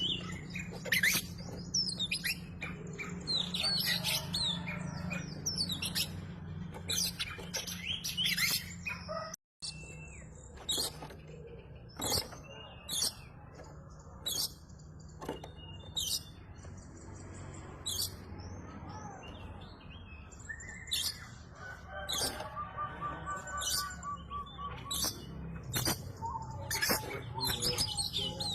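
Oriental magpie-robin (kacer) in full song: a fast, varied run of sharp chirps, whistles and trills, broken by a very short dropout about nine and a half seconds in. A steady low hum lies underneath.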